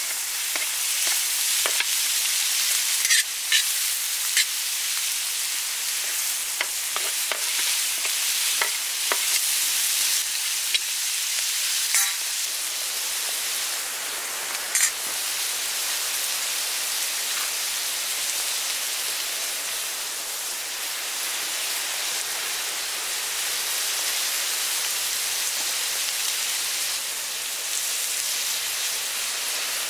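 Diced sheep organ meat and tomatoes sizzling steadily in a large steel pan over a wood fire. A few sharp clicks of the metal spatula on the pan in the first half.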